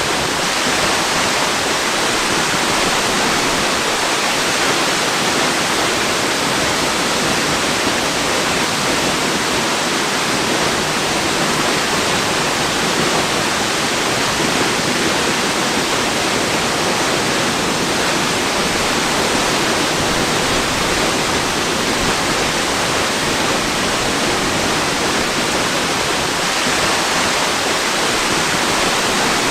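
A waterfall's steady rush of falling water: an even, unchanging hiss.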